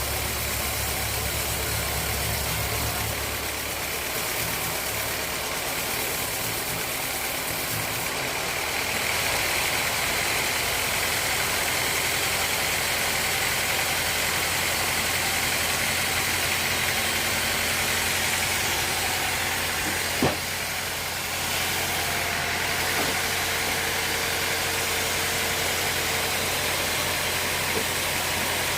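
Sawmill machinery running steadily, an engine-like hum under a constant hiss, with one sharp knock about twenty seconds in.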